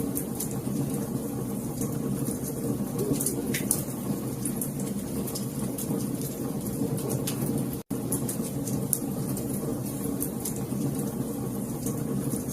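Wood fire crackling in a fireplace: scattered sharp pops and snaps over a steady low rumble of burning. The sound drops out for a split second about eight seconds in.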